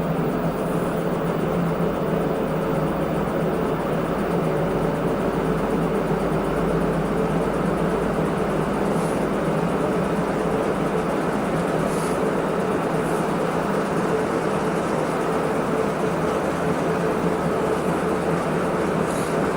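Washing machine running: a steady machine hum under an even rushing noise, with a few faint ticks.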